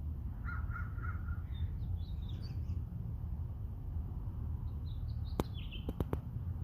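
Birds calling: three short, lower calls in quick succession about half a second in, then a scatter of higher chirps, with four sharp clicks near the end over a steady low rumble.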